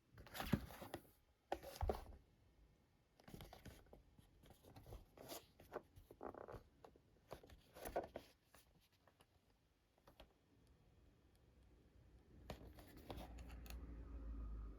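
Packaging being handled and opened: scattered rustling, scraping and tearing of a toy train's box and wrapping, with a low rumble of handling noise from about twelve seconds in.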